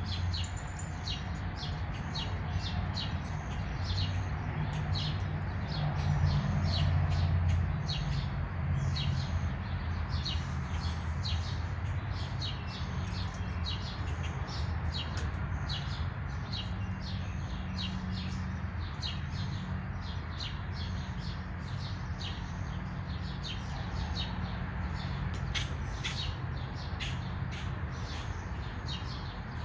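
Small birds chirping over and over, short high notes one or two a second, over a steady low hum that swells briefly a few seconds in.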